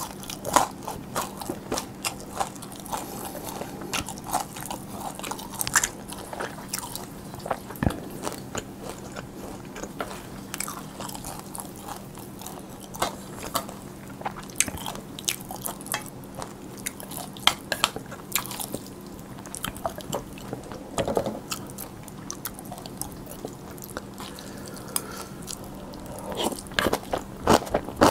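Close-miked chewing of spicy cold noodles with crunchy vegetables: many sharp crisp crunches and wet mouth clicks, busier near the end as another mouthful of noodles goes in.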